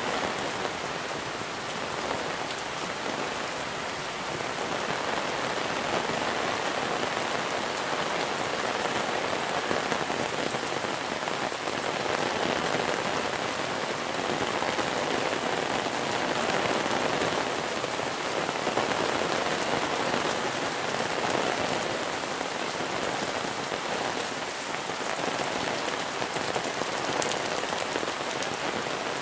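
Steady heavy monsoon rain pattering on surfaces, a dense even hiss of many drops.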